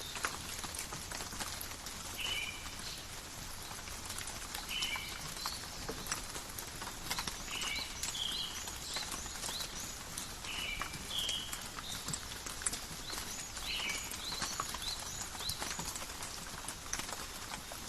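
Steady rain pattering on forest foliage, with many separate drips and drops. Through it, a short two-note call repeats every two to three seconds.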